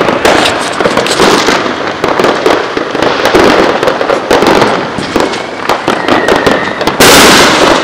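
Fireworks going off nonstop: a dense crackle of overlapping pops and bangs, with a louder burst near the end.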